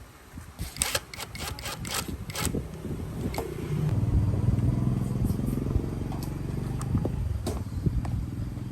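Husqvarna 365 chainsaw's two-stroke engine being started. A few sharp clicks and rattles come in the first couple of seconds, then the engine catches about four seconds in and runs steadily at idle.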